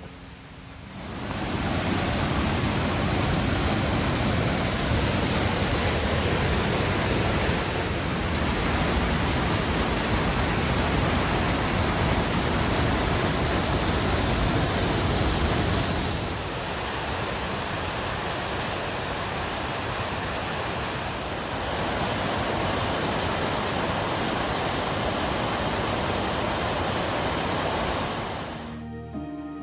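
Colwith Force waterfall on the River Brathay: a loud, steady rush of falling water that comes in about a second in, drops a little in level about halfway through and cuts off suddenly just before the end.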